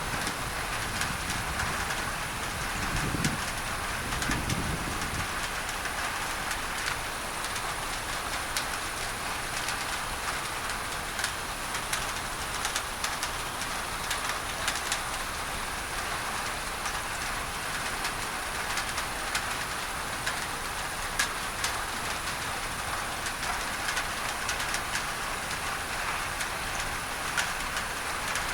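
Rain falling on a tin roof: a steady hiss thick with sharp drop taps, blended with an even masking noise. A low rumble swells briefly a few seconds in.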